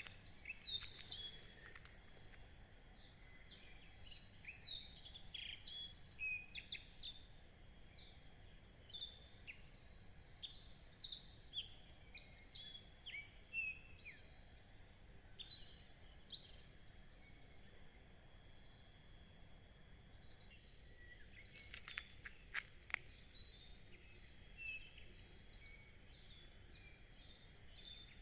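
Wild birds singing and chirping, several calls overlapping, dense in the first half and sparser after. A few short clicks come about three quarters of the way through.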